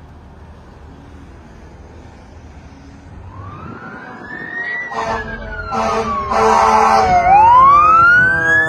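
An emergency vehicle's siren, most likely on a responding fire engine, drawing closer. It starts faint and grows loud, wailing up and then down, then rising again, with a few short horn blasts in the middle.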